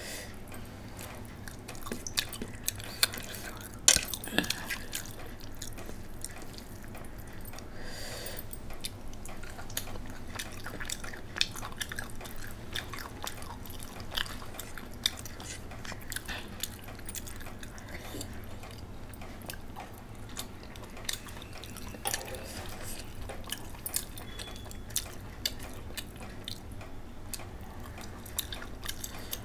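Close-up wet chewing and lip-smacking of a person eating rice by hand, with many scattered sharp mouth clicks.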